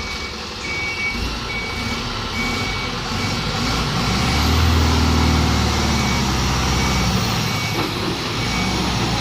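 Ashok Leyland tipper truck's diesel engine running under a steady reversing alarm that beeps at one high pitch about once a second. About four seconds in the engine speeds up and gets louder, easing off again near seven seconds.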